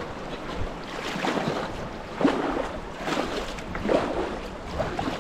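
Kayak paddle strokes in shallow creek water, splashing about once a second.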